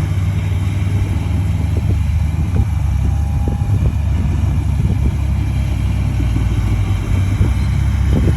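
Komatsu D31A bulldozer's diesel engine running steadily with a deep low rumble, with a few faint short knocks over it.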